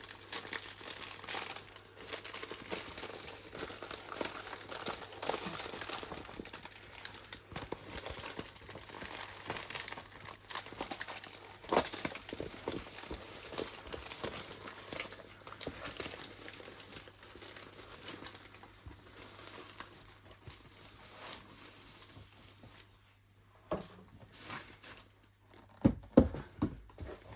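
Plastic packaging of a diamond painting kit crinkling and rustling as it is handled and packed away, with a few dull knocks near the end.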